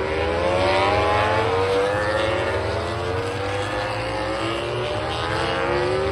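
MotoGP racing motorcycle engines accelerating hard. The pitch climbs for a second or two, drops back and climbs again several times as they shift up through the gears, with more than one engine overlapping.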